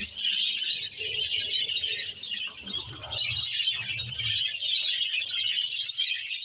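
A flock of budgies chattering and chirping together: a continuous mass of many overlapping short, high chirps with no pause.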